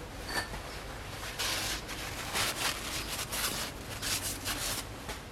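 Several short bouts of rustling and scraping as a used oil filter is handled and turned over in the hands.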